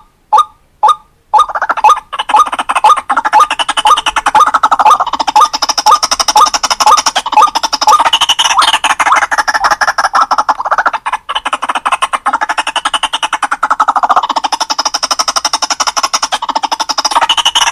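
White-breasted waterhen (ruak-ruak) calling. A few separate harsh notes come about two a second, then from about a second in a dense, rapid run of repeated croaking notes.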